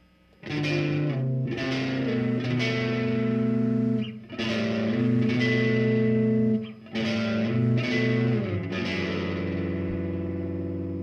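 Electric guitar through effects playing slow chords, each left to ring. It comes in about half a second in, breaks off briefly twice, and the last chord is held.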